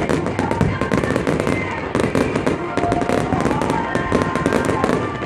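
A dense, unbroken barrage of fireworks: many shells bursting and crackling every second, the bangs running into one another.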